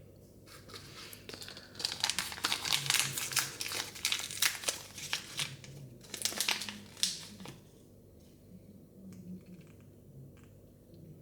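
Thin plastic packaging of a Mini Brands surprise ball crinkling and tearing as it is unwrapped by hand. The crinkling is dense for about seven seconds, then drops to a few faint rustles and clicks.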